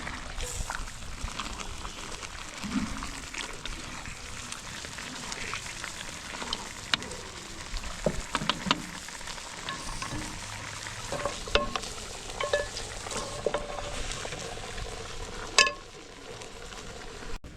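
Food frying in a pan, sizzling steadily while being stirred, with scattered clicks throughout and one sharper click near the end.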